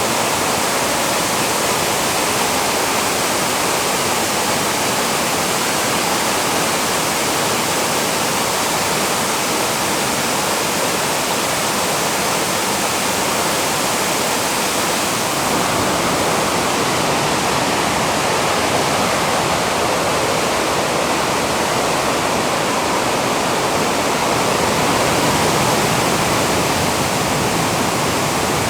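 Steady, loud rushing of water, an unbroken wash of noise with no distinct drops or splashes.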